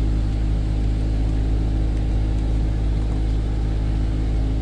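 Car engine idling: a steady low hum with an even drone.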